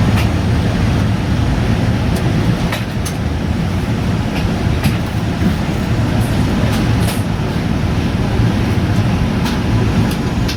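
Cabin noise inside a Boeing 787-9 airliner on the ground: a steady low rumble, with faint clicks here and there.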